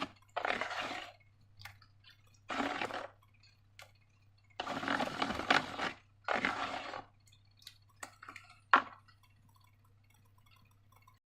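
Wet slime-making sounds: four separate bursts of squelching, pouring liquid, then a few small clicks and one short sharp squelch near the end, over a faint steady electrical hum.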